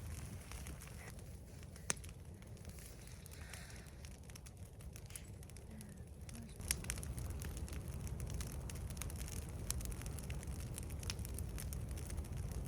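Brush pile fire burning, with scattered sharp crackles and pops over a steady low background noise that grows louder a little past halfway through.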